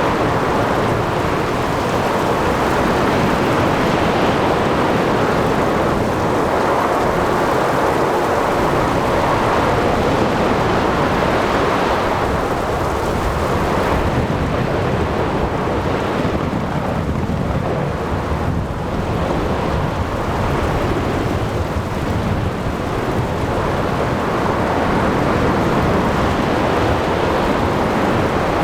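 Ocean thunderstorm: steady dense noise of rain, wind and breaking waves with a continuous low thunder rumble underneath, thinning slightly in the highs partway through.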